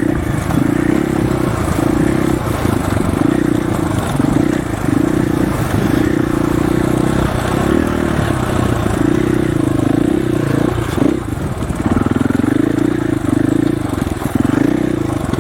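Dirt bike engine running under a rising and falling throttle while riding, with a brief easing off about eleven seconds in, over a steady rush of wind noise.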